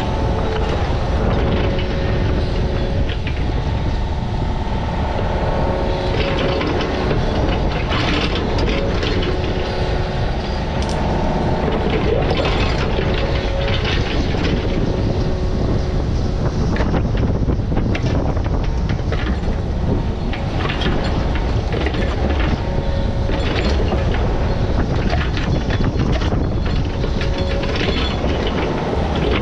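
A digging machine's engine running steadily, with a constant clatter of knocks and scrapes throughout and a steady whine through roughly the first ten seconds.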